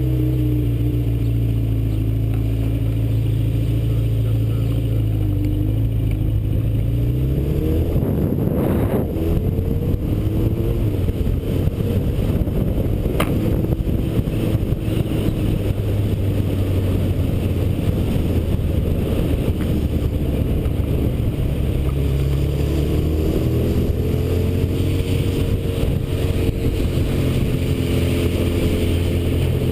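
Yamaha Seca II's inline-four motorcycle engine running under way, heard from the rider's helmet with wind rushing over the microphone. About eight seconds in the engine revs up and the wind rush grows louder; later the engine pitch falls and rises again as the bike slows and speeds up.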